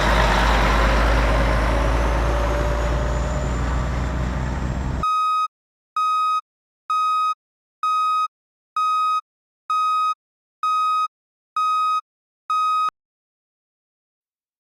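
Truck engine noise for about five seconds, cutting off abruptly into a truck's electronic reversing beeper. The beeper gives nine evenly spaced beeps of one steady high tone, a little more than one a second, then stops.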